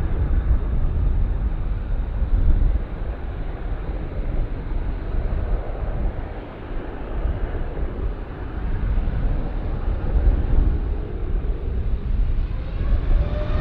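Jet airliner engines rumbling deep and uneven. Near the end an engine whine comes in and rises slightly in pitch.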